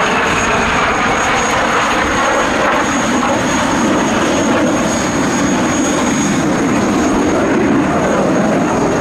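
BAC Strikemaster jets' Rolls-Royce Viper turbojets running loud in a display pass: a steady, dense jet rush with a thin high whine over it.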